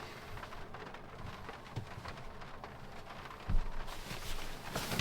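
Rain pattering on the roof of a pop-up truck camper, heard from inside as a steady patter of fine drops. A single low thump comes about three and a half seconds in.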